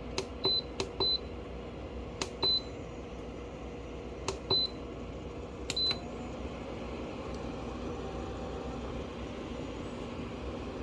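Portable camping air conditioner's control buttons being pressed five times in about six seconds, each press a click followed by a short high beep, over the steady hum of the unit running.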